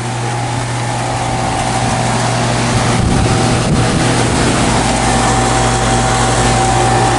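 Outdoor air-conditioning condenser unit running in cooling mode: a steady rush of air from the condenser fan over a constant low compressor hum, with a faint steady tone.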